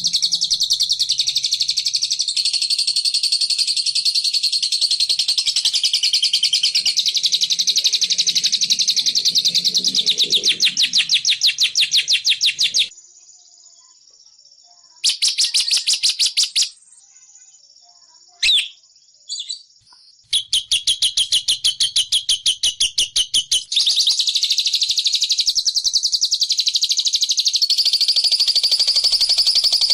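A recorded bird call used as a lure for the bilabu: a fast, high-pitched chattering trill of many short notes a second, repeated almost without break. It drops out twice for a few seconds midway, with one short call in between.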